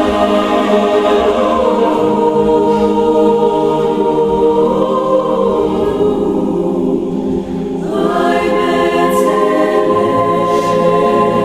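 Choral singing, several voices holding long sustained notes in a slow, gospel-like style, with a brief dip and a fresh entry about eight seconds in.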